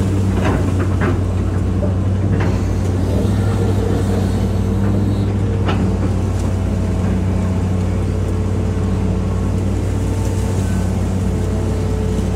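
Hitachi EX200-5 excavator's diesel engine running steadily under work. A few short knocks come in the first few seconds and one more about halfway through.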